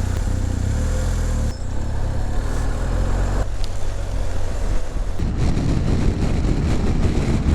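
Motorcycle engine running just after being started, then pulling away. Its note shifts a few times as it gets under way, and from about five seconds in a rougher rumble of riding noise takes over.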